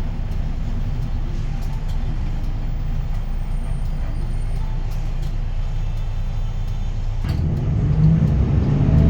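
Hyundai Green City city bus's D6GB diesel engine running under way, heard as a steady low rumble inside the cabin; about seven seconds in it grows louder, and its pitch rises near the end.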